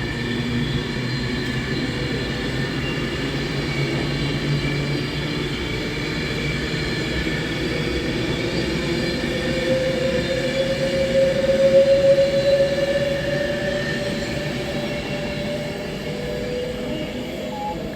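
Passenger train at a station platform: a steady machine hum with several tones, one of which slowly rises and swells about two-thirds of the way through before easing off.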